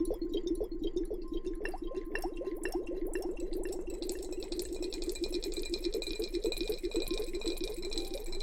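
Wet lather being rubbed and squished in quick, even strokes, as in a close-miked ASMR hair wash. A fizzing, crackling foam sound joins about halfway through.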